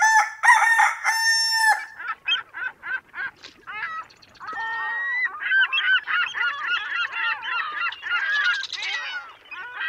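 A flock of birds calling: a few long, held calls at first, then many short calls in quick succession, overlapping one another.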